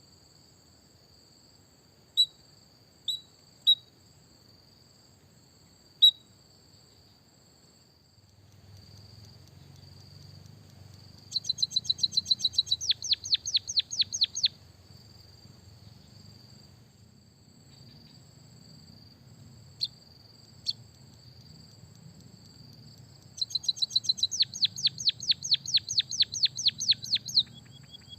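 A small songbird singing: a few single high chips, then two fast runs of sharp, downward-sweeping notes, each lasting a few seconds. A faint steady high tone runs underneath.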